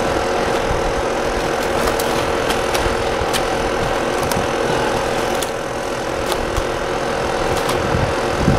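A steady motor hum with an even hiss over it and a few faint clicks.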